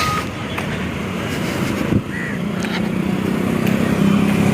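Road traffic: motor vehicles passing. A low engine hum grows louder over the last second or so as a vehicle comes closer.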